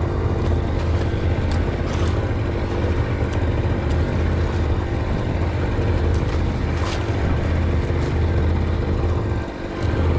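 A steady low engine hum, with a brief dip in level about nine and a half seconds in.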